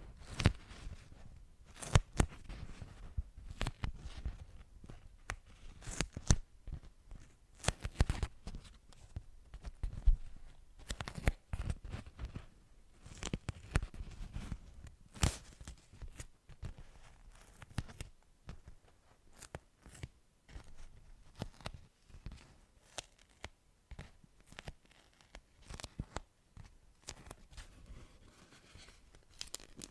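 Close-miked ASMR trigger sounds: irregular sharp clicks and crackles, several a second, with a few louder snaps among them.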